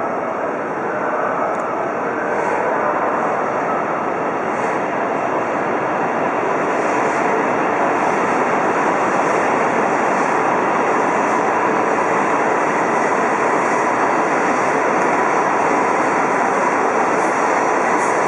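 Shinkansen bullet train running along the platform track, a loud, steady rushing of wheels and motors with a faint whine, growing a little louder about six seconds in.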